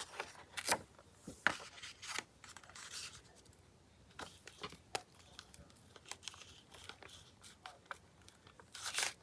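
Paper being handled close up: scattered soft rustles, crinkles and small taps as cut paper pieces are positioned and pressed down for gluing.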